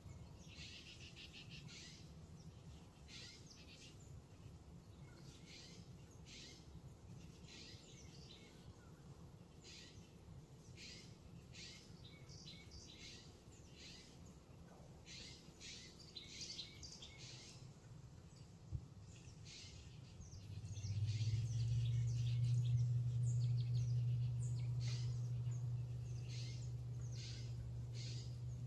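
Small birds chirping and calling in short repeated notes throughout, over a faint low rumble. About two-thirds of the way in, a louder steady low hum sets in and holds to the end, with a single sharp click just before it.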